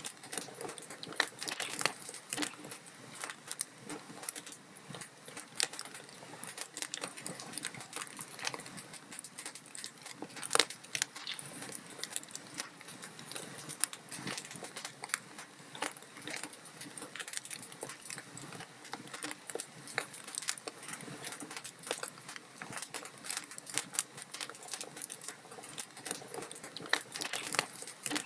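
Log fire crackling: a steady stream of irregular sharp pops and snaps from burning wood, with one louder pop about ten and a half seconds in.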